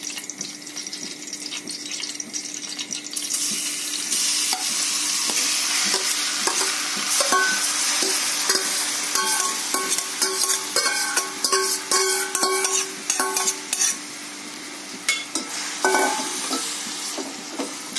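Grated bottle gourd frying in hot melted ghee: a sizzle that swells a few seconds in as the wet gourd goes into the pan, then eases off near the end. A steel ladle scrapes and clinks against the pan and bowl as the gourd is pushed in and stirred.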